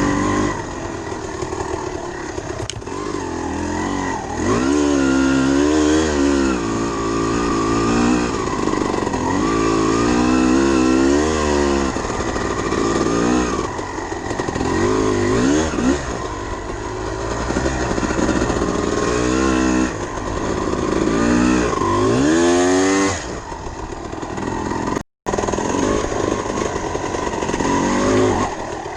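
Dirt bike engine revving up and falling back over and over as it is ridden, its pitch climbing and dropping every few seconds. There is a brief cut-out about 25 seconds in.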